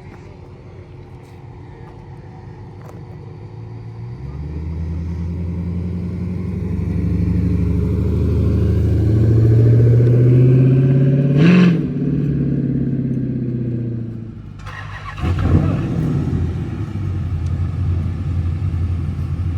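A car engine rising in pitch and loudness as it revs or pulls away, peaking with a sharp burst about eleven seconds in, then dropping off. A second burst of engine noise comes near fifteen seconds, followed by a steady low rumble.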